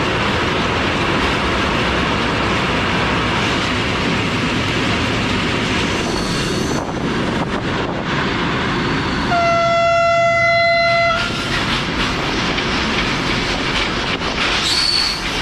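Moving freight train heard from on board: a steady loud rush of wheel, rail and wind noise. About nine and a half seconds in, a single steady train horn blast sounds for nearly two seconds.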